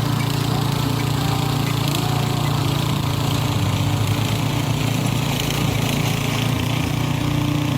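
Single-cylinder 170 air-cooled petrol engine on a walk-behind tiller running steadily while it tills the soil.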